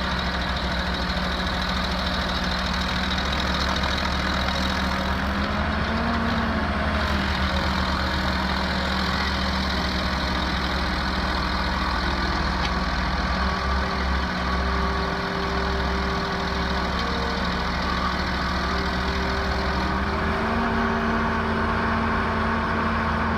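Heavy machine engine running steadily under load, its pitch rising slightly about six seconds in and again from about twenty seconds in.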